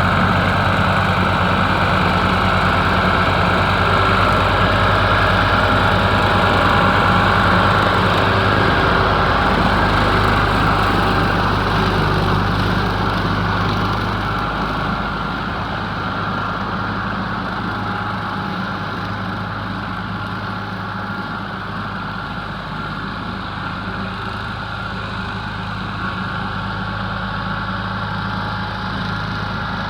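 Ford 4000 three-cylinder diesel tractor engine running steadily, growing somewhat quieter about halfway through.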